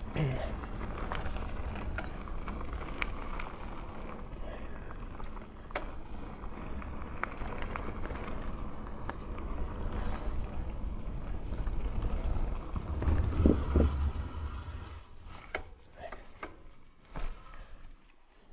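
Mountain bike being ridden over a trail: steady rumble of tyres and wind on the microphone, with frequent clicks and knocks from the bike rattling over the ground. It gets loudest a little past the middle, then eases off.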